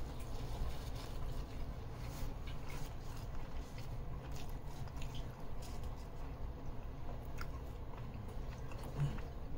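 A person chewing a mouthful of crusty grilled chicken ciabatta sandwich close to the microphone, with scattered small crunches and wet mouth clicks.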